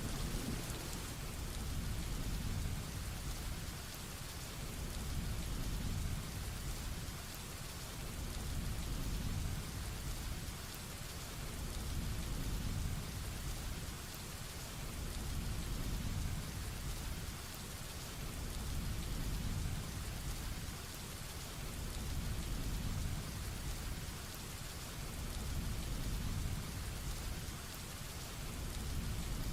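Heavy rain falling steadily, with a low rumble of thunder underneath that swells and fades about every three to four seconds.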